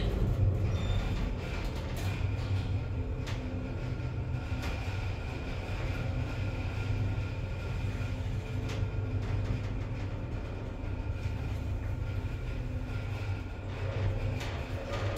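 Steady low mechanical hum and rumble, with faint steady high tones and a few light clicks.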